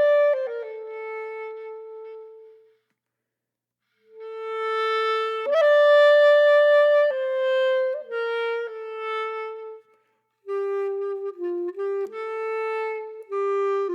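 Music: a solo wind instrument playing a slow melody of held notes, with no accompaniment, breaking off twice into short silences.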